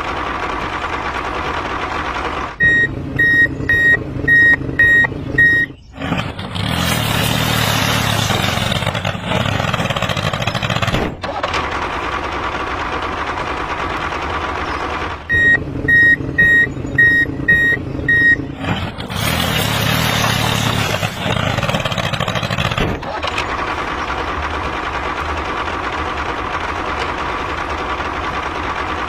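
Vehicle reversing alarm beeping in two runs of about six beeps each, roughly two a second, over a steady motor running sound. Between the runs come stretches of louder rushing noise.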